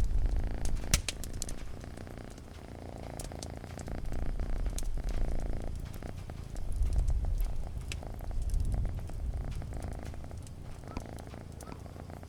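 A cat purring close up in slow swells that rise and fall every couple of seconds, over a crackling campfire with scattered sharp pops.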